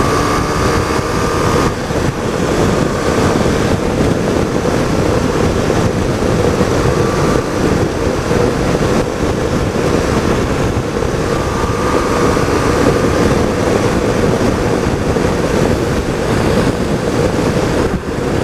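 Wind rushing over the helmet microphone on a moving motorcycle, with the BMW R1200GS's flat-twin engine running steadily underneath.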